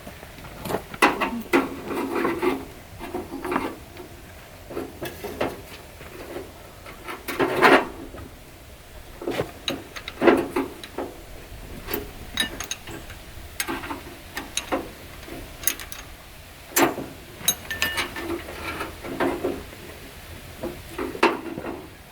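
Irregular knocks, clanks and scraping as parts of an old John Deere 1010 tractor are worked on and taken off by hand, with bursts of rubbing and rasping between short quiet spells.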